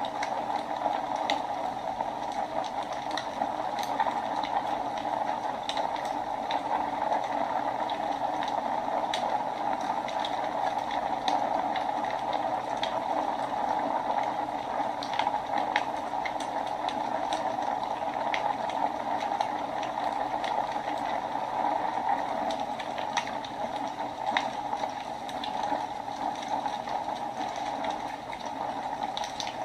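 Wood fire burning in a fireplace: a steady rushing hiss with irregular sharp crackles and pops of burning wood.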